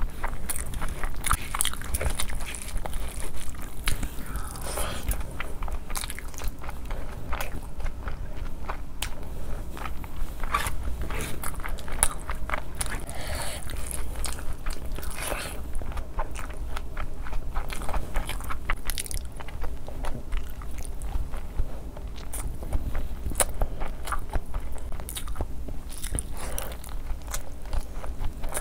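Close-miked mouth sounds of eating spicy fried rice and gravy-coated chicken lollipops: continual chewing and biting, with many quick wet clicks.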